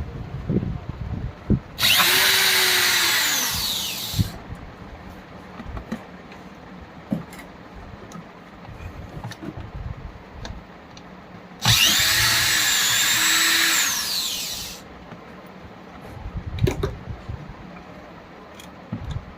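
Electric blower motor switched on twice in short runs of about two to three seconds, each time whining up to speed and then winding down. Light knocks and handling clicks between the runs.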